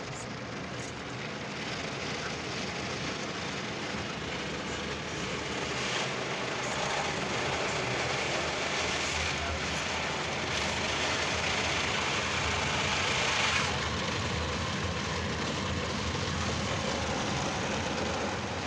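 Mark VII ChoiceWash XT automatic car wash working over the car, heard from inside the car: a steady rush of water spray and machinery. It swells about six seconds in and drops off suddenly around thirteen and a half seconds.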